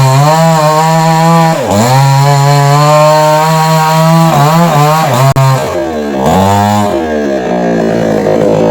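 Chainsaw running at high revs while cutting coconut-tree wood, its pitch dipping sharply a few times as the chain loads up in the cut, then dropping to a lower pitch after about seven seconds as the throttle eases.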